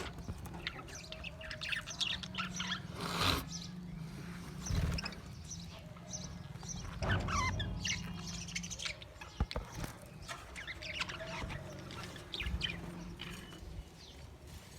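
Budgerigars chirping and warbling, with many short calls overlapping, over a low steady hum.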